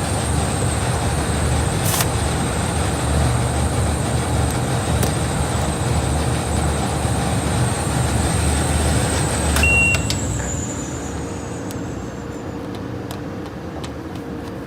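Folding-box tape-applying machine running: a steady mechanical din with a thin high whine and a few sharp clicks. About ten seconds in, a short beep sounds, the whine slides down in pitch and fades, and the overall noise drops.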